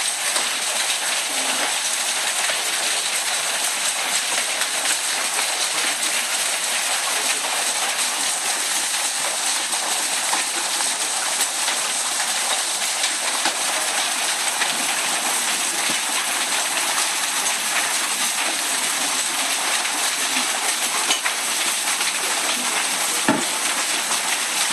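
Hailstorm: hail and rain pelting down in a steady, dense hiss peppered with countless small clicks of hailstones striking. One sharper knock near the end.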